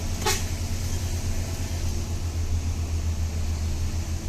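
Truck engine running at a steady low drone with a faint pulsing beat, heard from inside the cab as it drives on. A short sharp noise cuts in once about a third of a second in.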